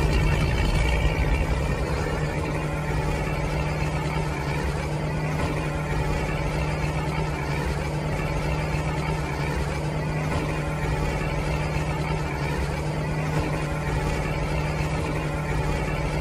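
Toy RC tractor running steadily: a low engine-like hum with overtones that holds one pitch, without revving.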